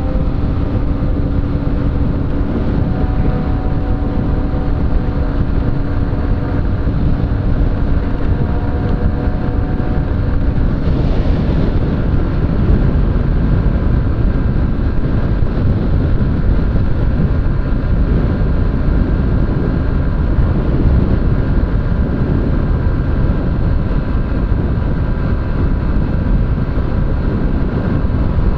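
Honda CG 125 Fan motorcycle on the move: a steady low rumble of wind on the microphone over the engine's hum, with a brief swell about eleven seconds in.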